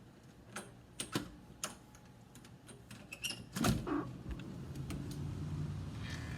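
Scattered knocks and clicks, the loudest about three and a half seconds in, then a steady low hum from about four seconds on.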